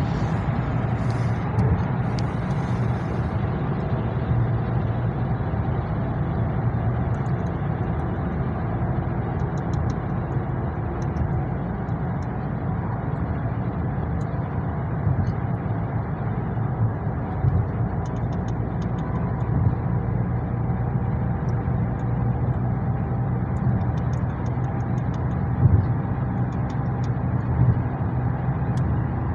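Car driving at steady speed, heard from inside the cabin: a constant rumble of engine and tyre noise.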